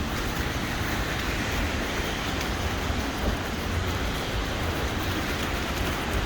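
Street ambience: a steady wash of traffic noise with a deep rumble and no distinct events.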